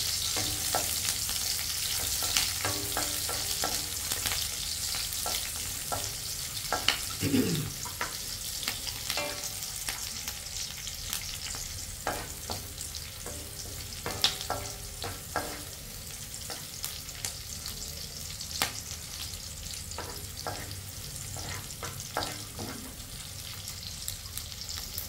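Chopped onion sizzling in hot oil in an aluminium wok, with a wooden spatula scraping and knocking against the pan now and then as it is stirred.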